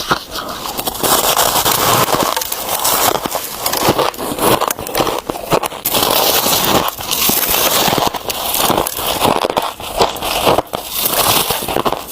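Freezer frost bitten and chewed close to the microphone: dense crunching and crackling, in stretches with short breaks between bites.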